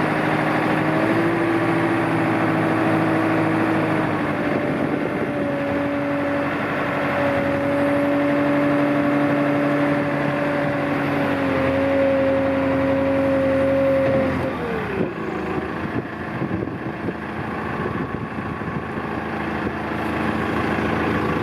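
Thwaites 6-tonne dumper's diesel engine running at steady raised revs, then about fourteen seconds in the revs drop away and it settles to a lower, rougher idle.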